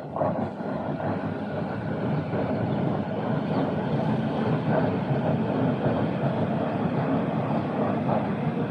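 A train passing close by: a steady, loud rolling noise of wheels on the rails that swells up just as it begins and holds.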